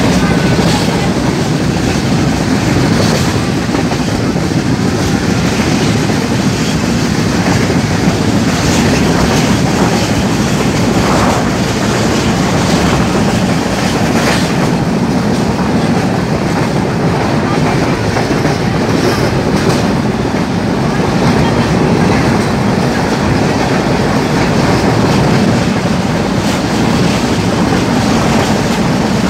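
Train running steadily on the track, heard from on board: a continuous rumble of wheels on rails with scattered faint clicks.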